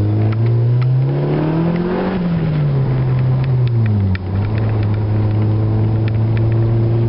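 Honda D15B 1.5-litre four-cylinder engine and its exhaust under way, heard from inside the car: the revs climb to a peak about two seconds in, fall back, and after a brief drop in loudness about four seconds in the engine holds a steady cruising note.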